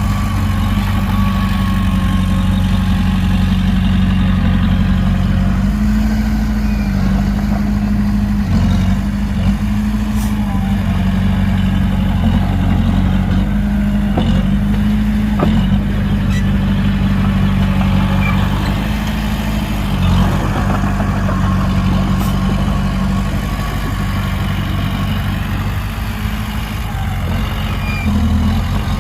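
Heavy diesel engine of earthmoving machinery running steadily at low speed, with a few faint clanks.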